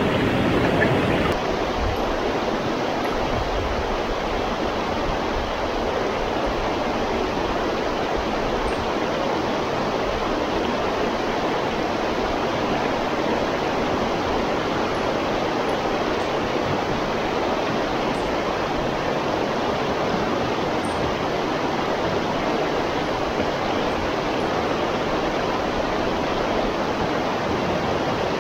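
Steady rushing of moving river water.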